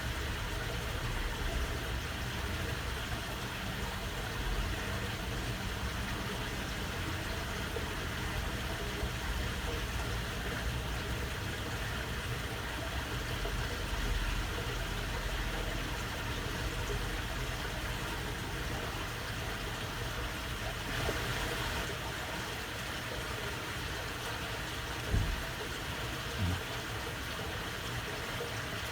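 Water in a channel flowing steadily: a continuous murmur with a low rumble underneath. Two brief thumps come near the end.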